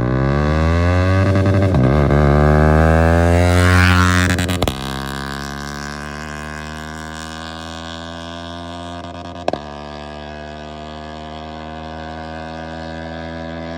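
Yamaha R15M's single-cylinder engine through an aftermarket Akrapovic-style exhaust, revving up with rising pitch for about four seconds. It then drops suddenly to a steadier, lower note that slowly fades. A brief crack comes about halfway through.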